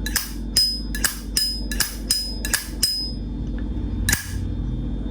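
Vintage 1976 Zippo lighter's hinged lid being flicked open and snapped shut, sharp metallic clacks with a brief ring. There are about eight in the first three seconds, then one more about a second later, showing off the lighter's lid sound, which is called quite nice.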